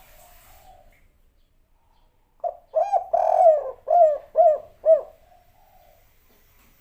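Spotted dove (tekukur) singing one cooing phrase, starting about two and a half seconds in. A few short coos lead into one drawn-out coo, and the phrase ends in three short arched coos, the 'kuk 3' song pattern.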